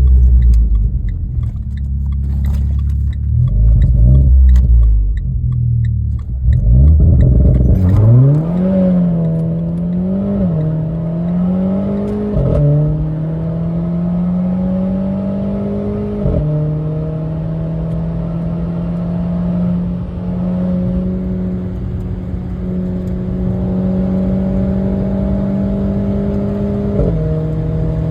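Renault Clio RS's turbocharged four-cylinder engine on a launch-control full-throttle pull. A deep, loud rumble while the car is held at the launch gives way about eight seconds in to a sharply rising engine note as it takes off. The revs then climb more slowly, dropping abruptly at each upshift, three times.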